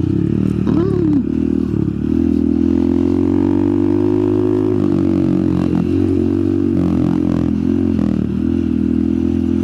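Honda Monkey 125's single-cylinder four-stroke engine running at low revs. It holds a steady note, with its pitch dipping and rising briefly about a second in and several times in the second half.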